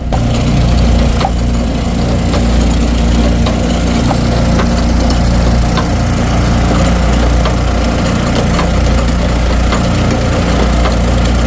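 Engine of an Eastonmade wood splitter running steadily, with faint scattered clicks over it.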